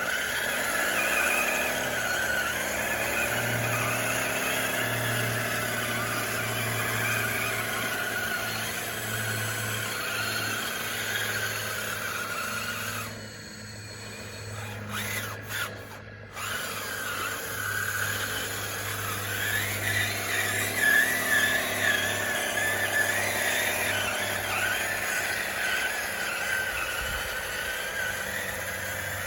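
A DXR2 radio-controlled bulldozer's electric motors whining steadily, the pitch wavering as the load changes while it works dirt. The motors pause briefly about 13 seconds in, then pick up again.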